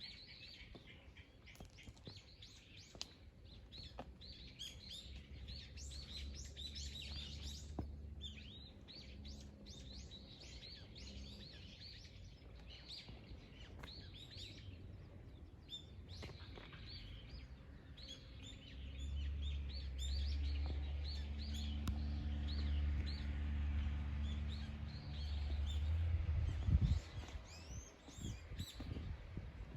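Many small birds chirping and calling in quick, overlapping phrases, over a low steady hum that swells louder about two-thirds of the way through and rises briefly near the end.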